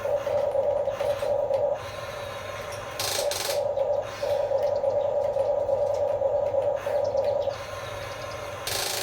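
Small electric motors and gearboxes of a remote-control construction toy whining steadily. The whine eases off twice for about a second, with short scraping rushes about three seconds in and near the end.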